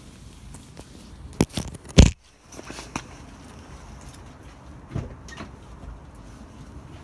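A few separate knocks and thumps over low background noise; the loudest, about two seconds in, is followed by a moment of near silence.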